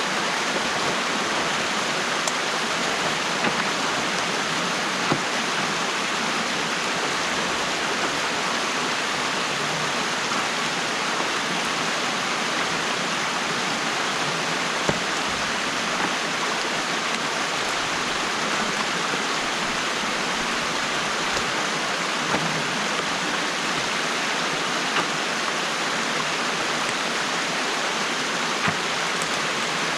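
Stream water rushing steadily through a beaver dam that is being opened up by hand, with a few brief clicks.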